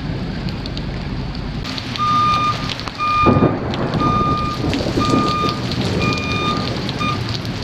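A vehicle's reversing alarm beeping in steady single-pitch beeps about once a second, starting a couple of seconds in, over the hiss of heavy rain.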